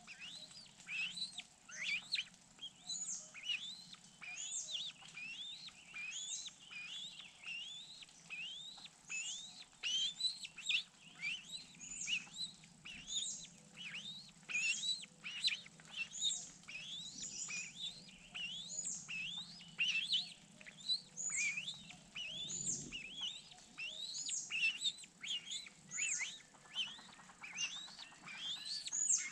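Birds chirping: a steady run of short, high-pitched chirps, several each second.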